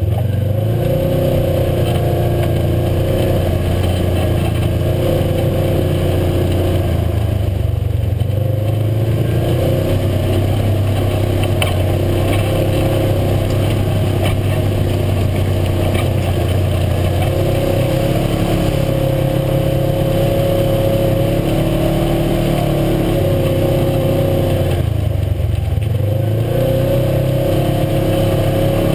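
UTV engine running under way, its pitch rising and falling with the throttle, easing off briefly about eight seconds in and again near the end.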